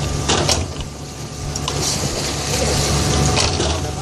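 Boat engine running steadily with a low hum, with a few sharp knocks and clanks over it.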